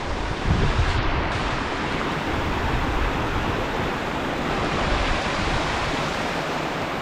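Steady rushing of a fast-flowing river running high after rain, heard as an even wash of noise.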